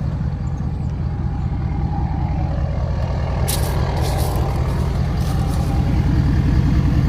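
2012 Ford F350 pickup running with a steady low engine rumble, and a few short, sharp high chirps in the middle from a loosely secured rear wheel lug nut cap.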